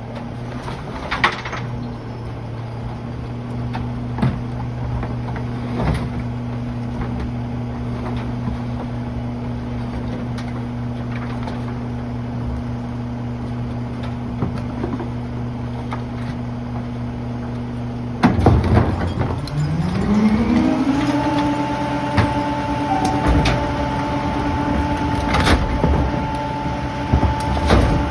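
Rear-loading garbage truck's diesel engine idling steadily, then about eighteen seconds in getting louder and speeding up over a couple of seconds to hold at a higher, steady pitch. Scattered knocks and clunks throughout.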